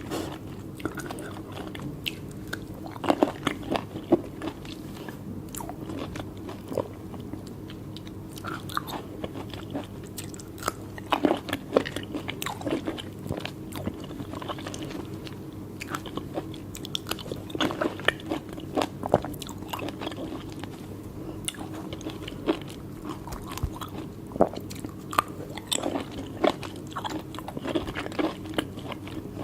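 A person biting and chewing soft, juicy cherries, with irregular wet crunches and clicks over a steady low hum.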